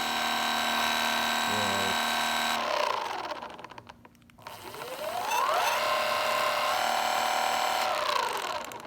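Inboard M1 electric skateboard hub motor spinning up with a rising whine, running steadily, then winding down, twice over. It carries the clicking noise the owner reports from this one motor, which sounds pretty bad and points to a faulty motor.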